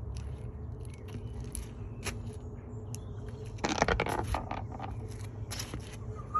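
Crunching and scraping of the smashed washing machine's broken parts, with scattered clicks and one loud crunch lasting under a second about four seconds in, over a steady low hum.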